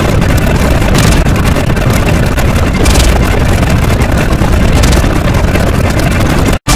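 Loud, dense, distorted noise with a deep rumble, steady throughout, cutting out abruptly for a split second near the end.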